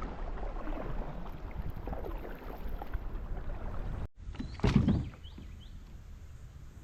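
Kayak on the water: paddle and hull noise with water sloshing, and one louder knock or splash about two-thirds of the way through.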